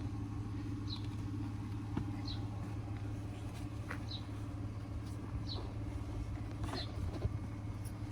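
Steady low hum of a car engine running, with a bird's short high chirp repeating about every second and a half.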